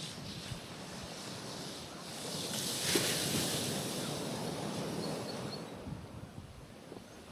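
Gentle sea waves washing onto a rocky shoreline. One wave swells about two seconds in, peaks about three seconds in, and its wash dies away by about six seconds.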